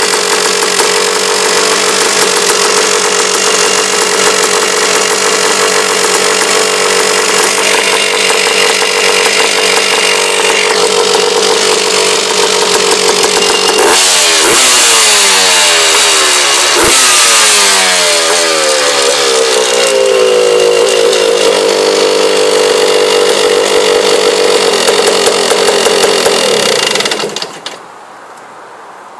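Honda TRX250R ATV's two-stroke single-cylinder engine running steadily. About halfway through it is revved twice, the pitch falling back after each rev, then it runs steadily again until the sound stops near the end.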